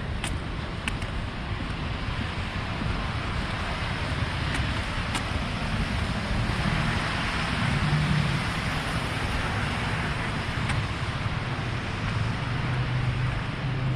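City street traffic: motor vehicles passing, the sound swelling as one goes by about seven or eight seconds in.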